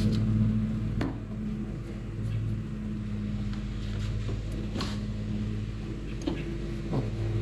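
A steady low machine hum with a few sharp clicks and taps over it.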